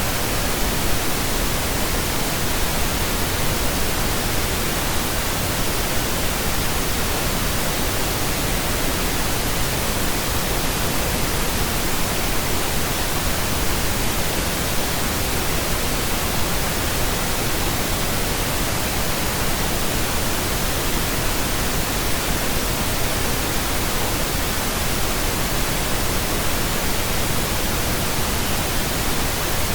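Steady pink noise: an even, unchanging hiss spread across the whole range of pitch, with no tones or events in it.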